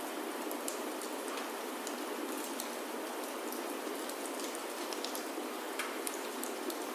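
Steady rain falling on a roof, an even hiss with many scattered sharp ticks and clicks throughout.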